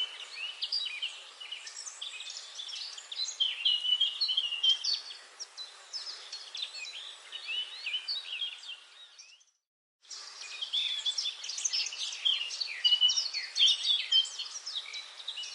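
A dense chorus of many songbirds chirping and whistling in a forest, over a steady hiss. A little past halfway the sound fades out, cuts to silence for under a second, then comes back at full level.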